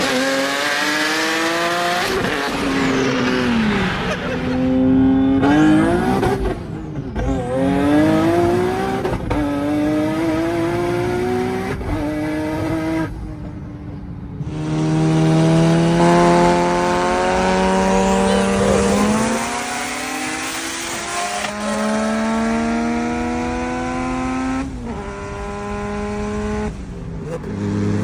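Car engine at full throttle accelerating hard through the gears: the pitch climbs steadily, drops back at each upshift, and climbs again. About halfway through it breaks off and another run of the same kind begins.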